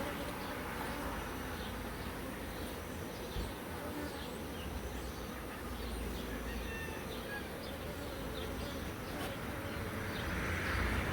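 Honeybees buzzing around an opened hive: a steady hum of many bees. A louder rushing noise comes in near the end.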